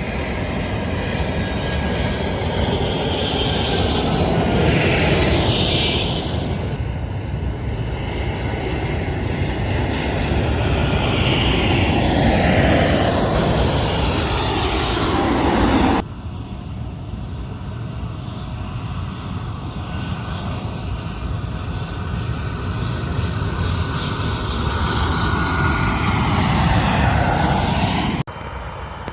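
Airliners passing low overhead on landing approach: a loud, steady engine roar with whining tones that sweep down in pitch as each plane goes by. The sound drops suddenly about halfway through and again near the end.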